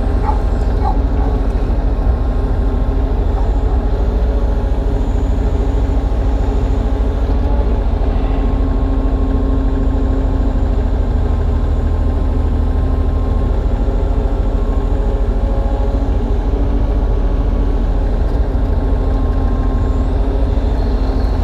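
Kubota U35-3 mini excavator's diesel engine running steadily at working revs as the machine digs, a continuous drone with no pauses.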